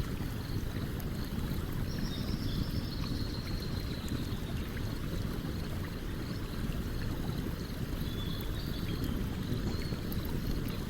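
Stream water flowing in a steady low rush, with small scattered crackles from a campfire over it. Faint high thin notes come through about two seconds in and again near eight seconds.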